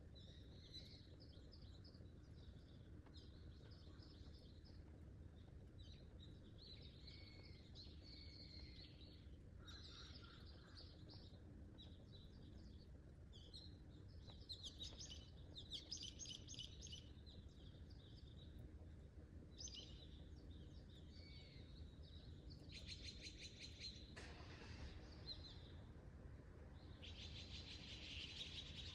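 Faint birds chirping and singing, many short calls with some buzzy trills, over a low steady background hum.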